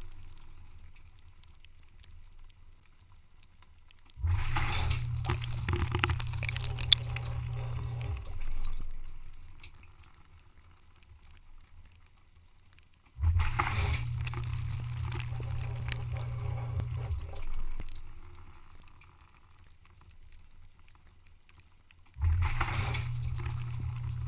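Dishwasher running in bursts: the pump starts abruptly with a low hum and water spraying, runs about four seconds, then stops while the splashing dies away. This repeats about every nine seconds, three times.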